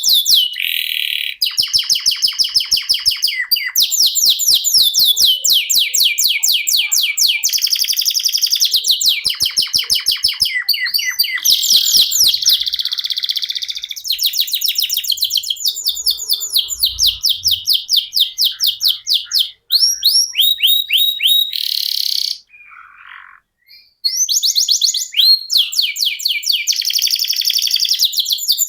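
Domestic canary singing long rolling trills: fast runs of repeated high notes, one roll after another. The song breaks off for under two seconds about three-quarters of the way in, then resumes.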